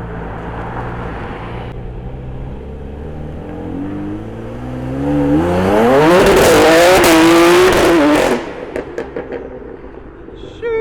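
Supercharged car engine idling, then revving hard, rising in pitch for about two seconds and held loud at high revs before cutting off sharply about eight seconds in. After that it runs quieter, with a few short falling squeals near the end.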